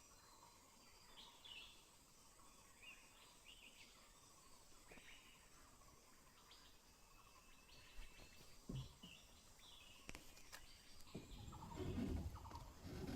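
Faint, scattered bird chirps over a quiet forest background, with louder low rustling and knocking sounds in the last two seconds.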